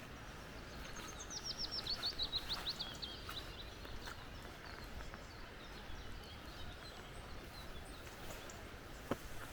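A small bird sings a quick run of about fifteen high notes stepping down in pitch, starting about a second in, followed by a few faint scattered calls. A steady hiss of forest ambience runs underneath, with a single sharp tick near the end.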